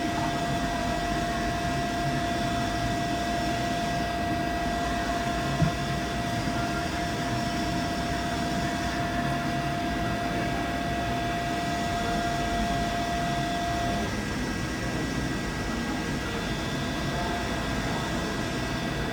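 Steady hum of a CNC milling machine, with a steady whine that stops about fourteen seconds in and a single click about five and a half seconds in.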